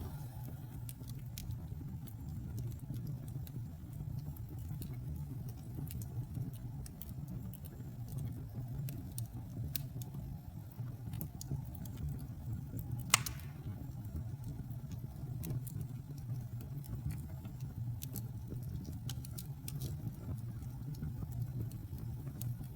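Wood fire burning in a fireplace: a steady low rumble of flame with scattered crackles, and one loud sharp pop about thirteen seconds in.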